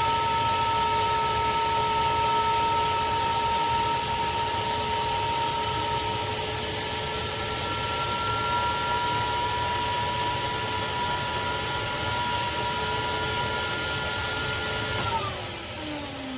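Craftsman CMXEVBE17595 16-gallon shop vac running with a steady whine over a rush of air. About 15 seconds in it is switched off and the motor's pitch falls as it spins down.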